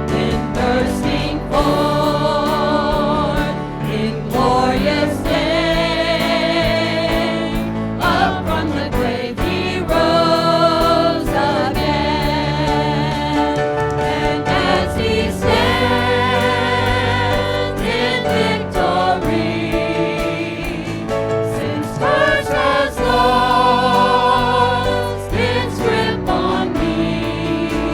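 Congregational hymn singing: a group of voices singing together with instrumental accompaniment.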